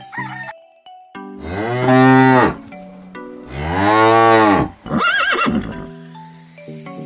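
A cow mooing twice, each long moo rising and then falling in pitch, followed by a shorter wavering call about five seconds in. Light chime-like background music plays around the calls.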